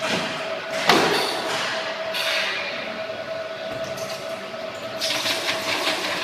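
Polystyrene hot-melt compactor running, with a steady whine throughout. A sharp knock comes about a second in, and rougher, noisier stretches come around two and five seconds in.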